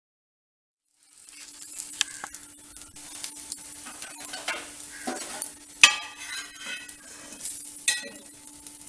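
Dosa batter sizzling in oil on an iron tawa, with a steel spatula scraping and clinking against the metal; the loudest clink comes about six seconds in. The sound starts about a second in.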